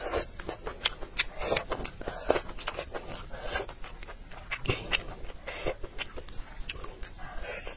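Close-up mouth sounds of a person chewing a mouthful of stir-fried leafy greens: irregular small clicks, smacks and crunches.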